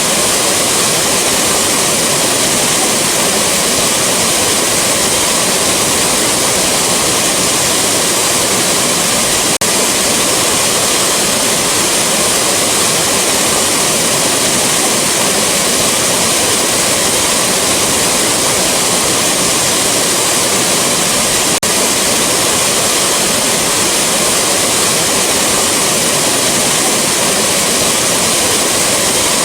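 Rushing waterfall: a steady, loud, even roar of falling water, heavy in the hiss. Two faint clicks, about ten and twenty-two seconds in.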